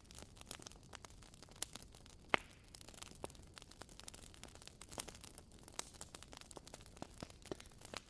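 Campfire crackling, with irregular sharp pops and one louder pop a little over two seconds in.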